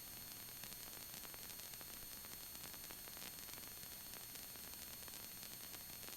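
Faint, steady hiss of a headset intercom audio feed between radio transmissions, with a few thin, high-pitched steady tones.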